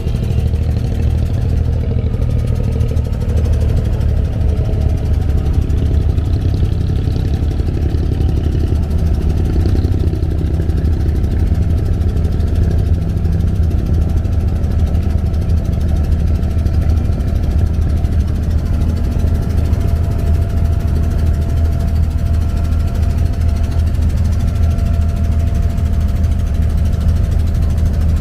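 Engine of a Dubai abra, a small wooden creek ferry, running at a steady speed with an even low drone.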